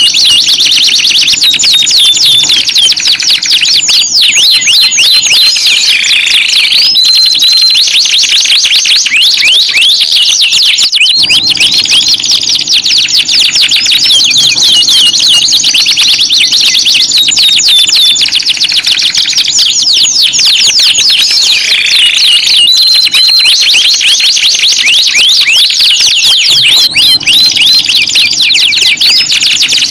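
Domestic canary song: fast rolling trills of rapid short chirps, broken now and then by brief held whistles, with the phrases repeating. It is a lure song (pancingan) meant to coax idle, reluctant canaries into singing.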